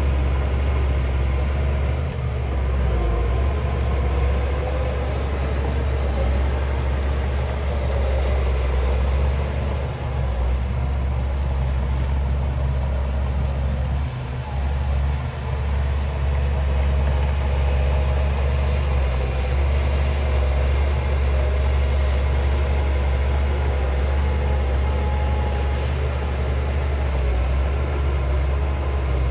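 Heavy diesel engine of earthmoving machinery running steadily with a deep hum, the level dipping briefly a few times.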